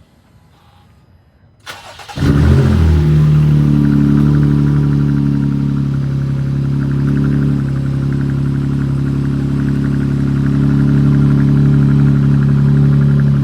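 Jeep Grand Cherokee engine cold-started: a short burst of starter cranking a little under two seconds in, then the engine catches with a loud flare and settles into a steady cold idle.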